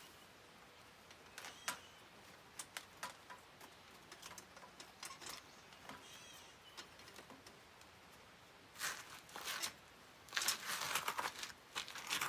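Scattered light clicks and clinks of tools being handled, with louder clattering and rustling in two spells near the end. No engine is running.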